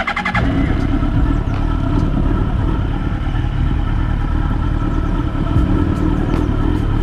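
Yamaha YZF-R1's inline-four engine running at a steady cruising speed while riding, its even engine note under a constant rush of wind and road noise.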